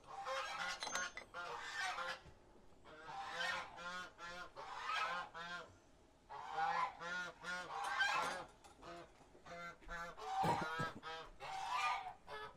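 Domestic geese honking over and over, in bouts of rapid calls with short pauses between.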